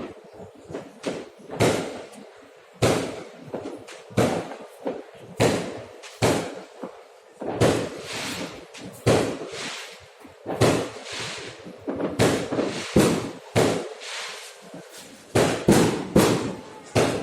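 Fireworks exploding in a continuous irregular barrage, about one or two sharp bangs a second, each trailing off in a short echo.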